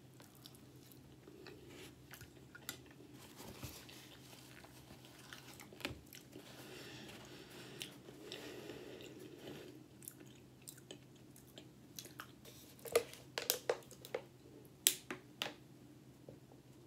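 A person chewing a mouthful of cheese fries, soft wet mouth sounds. Near the end come several sharp crackles and clicks as a thin plastic water bottle is handled before a drink.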